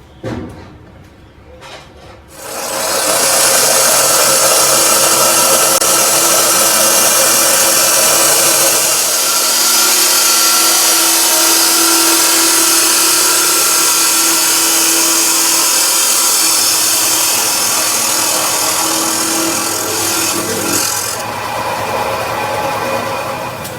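A power tool working metal starts up about two and a half seconds in and runs loud and steady with a harsh hiss and a whine, easing off near the end.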